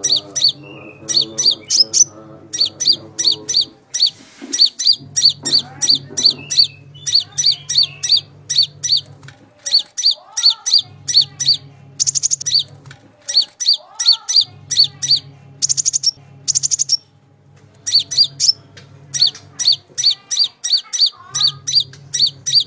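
Konin (kolibri ninja) sunbird calling: rapid runs of high, sharp chirps with brief pauses between runs. A low hum comes and goes underneath.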